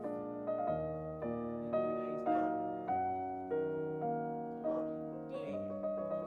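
Background piano music: notes and chords struck about twice a second, each fading before the next.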